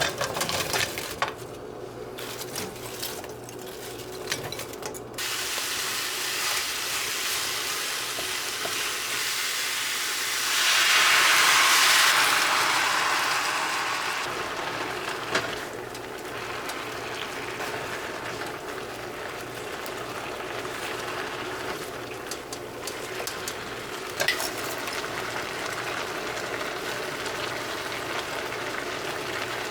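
Food sizzling in a hot frying pan, with a few clicks and knocks of utensils at first. The sizzle swells loudly for a few seconds about ten seconds in, then settles to a steady hiss.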